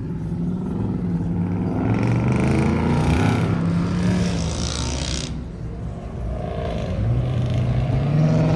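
Car engine with an aggressive cam and a choppy, lumpy idle, revved in swells that rise and fall. It dips briefly past the middle and climbs again near the end.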